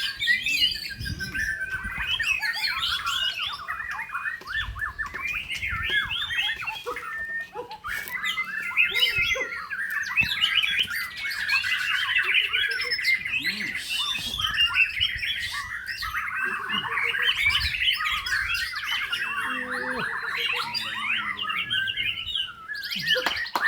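White-rumped shama (murai batu) singing a long, rapid, varied song of quick notes and trills, with a brief pause about a third of the way through.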